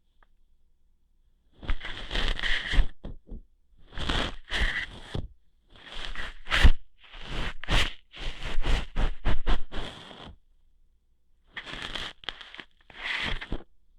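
ASMR ear-hair plucking sounds: close scratchy scraping and rustling. It comes in five bursts of one to three seconds with short silent gaps, and a couple of sharp clicks in the middle.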